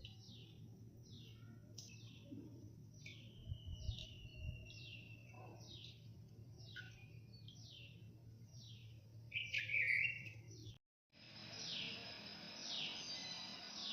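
Small birds chirping: a string of quick, high, downward-sliding chirps, about two a second, with a louder call about ten seconds in. The sound cuts out for a moment just before eleven seconds, then the chirping carries on over a steady hiss.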